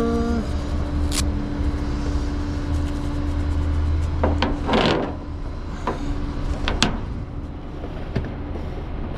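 A truck engine idling with a steady hum, with several sharp metallic clanks as the winch hook is unhooked from the car.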